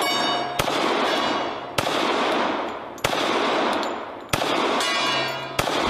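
A series of loud, sharp bangs, about one every second and a quarter, each followed by a wash of noise that fades away: the sound of gunshots.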